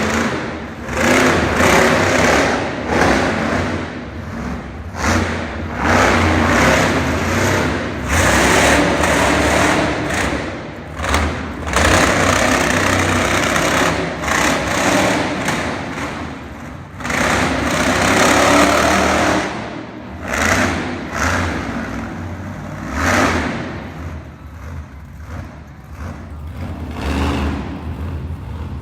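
Monster truck engine revving hard in repeated surges that swell and fall away, as the truck is driven up onto two wheels for wheelies. The surges ease off near the end.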